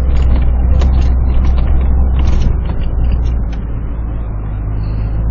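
Four-by-four's engine running steadily at low revs while driving through fresh snow on studded snow tyres. There is a rough, crackling tyre-and-snow noise over the engine hum for the first two seconds or so, which eases and turns a little quieter about three seconds in.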